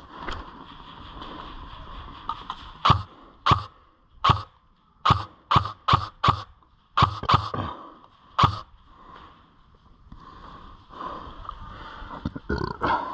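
About a dozen sharp snaps at irregular spacing, some in quick pairs, between about three and nine seconds in, over a faint steady hiss.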